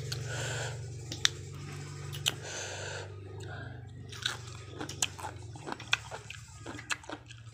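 A person chewing and crunching food close to the microphone, with sharp crisp crunch and mouth clicks that come more often in the second half. A low steady hum sits underneath and fades out about two-thirds through.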